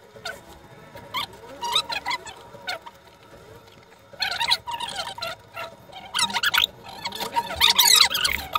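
Bird calls: irregular chirps and squawks, in bursts about four seconds in and again near the end.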